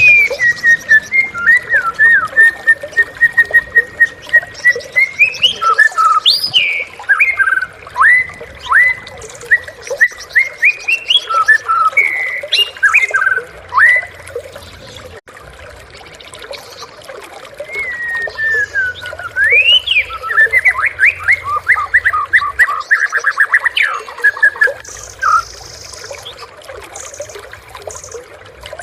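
White-rumped shama singing: loud whistled phrases of sweeping notes and quick trills, in two bouts with a pause of a few seconds in the middle.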